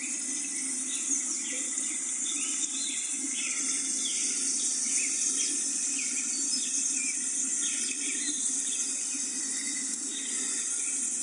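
Many small birds chirping, short quick calls throughout, over a steady high hiss and a low steady rumble.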